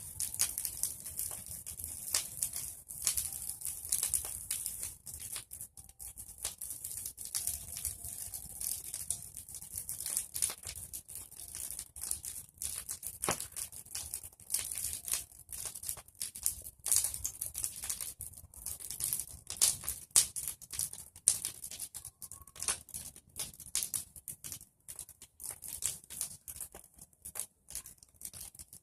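Bonfire of pruned tree branches crackling, with dense irregular pops and snaps.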